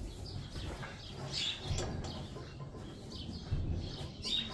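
Small birds chirping in short, scattered calls over a low rumble.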